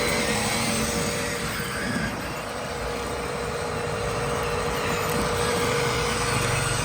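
Radio-controlled model trucks driving, their small electric drive motors and gearboxes giving a steady whine over a running hum.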